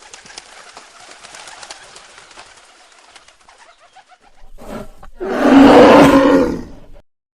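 Faint bird calls over a hiss, then about five seconds in a short grunt and a loud, drawn-out call from a large animal lasting about a second and a half.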